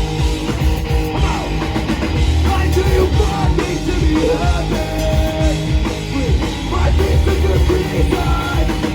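Live rock band playing loud and full: electric guitars, bass and drum kit, with some gliding guitar or vocal lines above.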